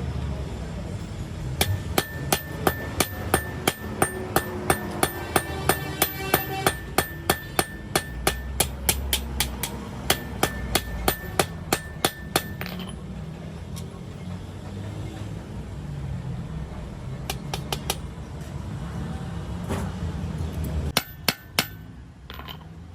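Hammer striking metal in a quick, even series of about three blows a second, each with a short metallic ring, stopping about thirteen seconds in; a few more blows come in two short groups near the end. A low rumble runs underneath.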